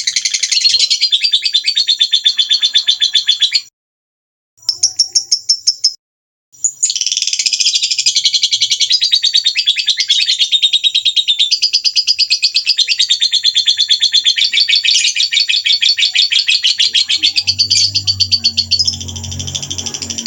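Songbird giving rapid-fire harsh 'tembakan' calls: fast trains of rough, chattering notes repeated without pause, broken twice by short silences about four and six seconds in.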